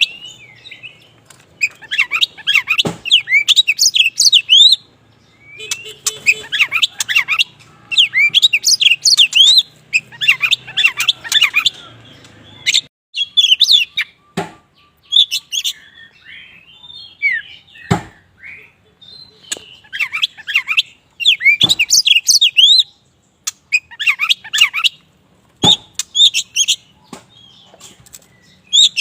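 Kacer wulung (black Oriental magpie-robin) in full song: bouts of rapid, varied whistled phrases lasting one to three seconds, separated by short pauses, with a few sharp clicks in between.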